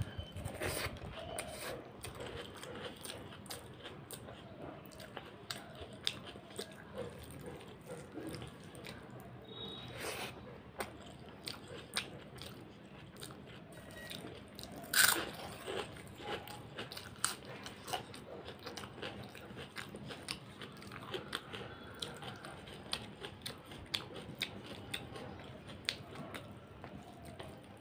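Close chewing and mouth sounds of someone eating rice and curry by hand, with many small wet clicks. About halfway through comes one loud crunch as a piece of fried papad (poppadom) is bitten.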